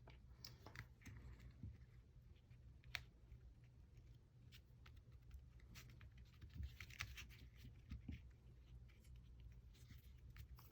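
Near silence: room tone with faint, scattered light clicks and rustles of paper being handled, one sharper click about three seconds in.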